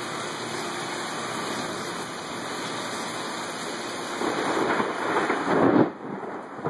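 Steady heavy rain, with a louder burst of thunder about four seconds in that lasts under two seconds and cuts off suddenly.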